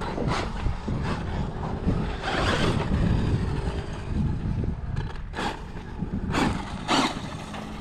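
Electric RC truck driving over dirt and gravel: several short bursts of tyre and gravel noise with a faint motor whine, over a steady low rumble.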